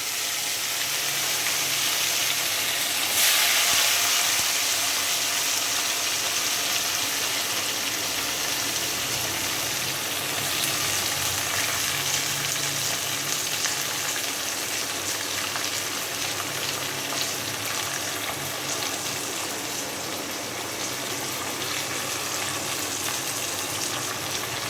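Garlic and onion frying in hot oil in a pan: a steady sizzle that jumps louder about three seconds in.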